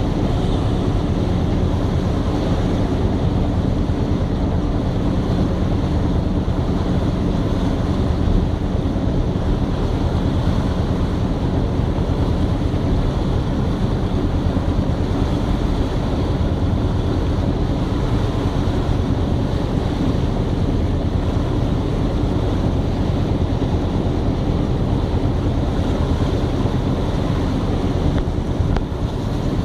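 Steady wind on the microphone over the even, low rumble of a tanker ship under way at sea.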